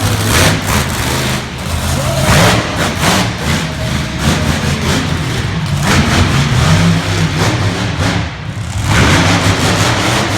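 Monster truck engine running loud and revving in surges, with a steady low drone beneath.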